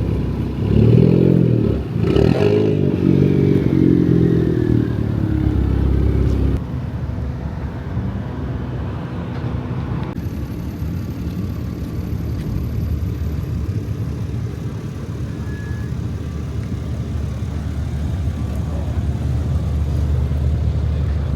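A motor vehicle's engine revving hard several times, its pitch rising and falling, with a whine that falls away. It stops abruptly about six seconds in and gives way to a steady low rumble.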